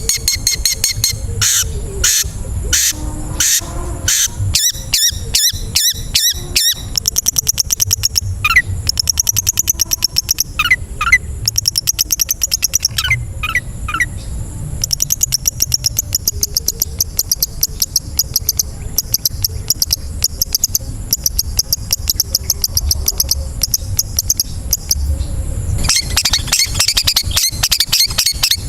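Long-tailed shrike (cendet) singing a mimicry-filled song. It runs from fast trains of harsh, sharp chattering notes into dense, rapid high trills, with short slurred whistled notes mixed in. A loud harsh chatter comes near the end, over a steady faint high hiss.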